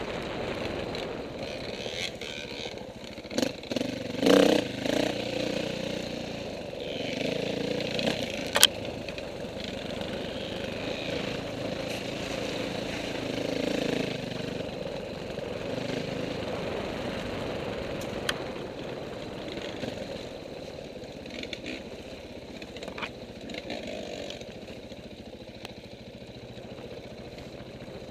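Off-road motorcycle engine running and revving up and down, with a loud surge about four seconds in and a few sharp knocks.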